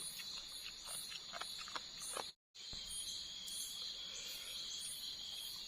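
Night insects in a tropical forest, mainly crickets, trilling steadily at a high pitch with faster repeating chirps above it, and a few faint clicks in the first two seconds. The sound cuts out completely for a moment about two and a half seconds in.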